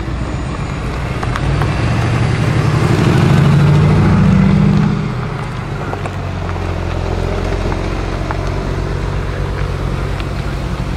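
A sports car's engine and exhaust under acceleration, growing louder to a peak and then dropping off suddenly about five seconds in. A steadier, lower engine note follows.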